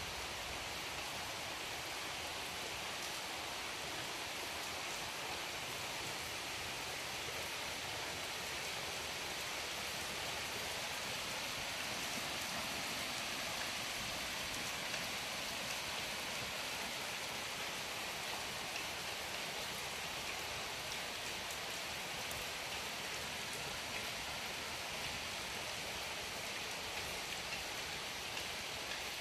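Heavy monsoon rain falling steadily on trees, fields and paved ground: an even, unbroken hiss.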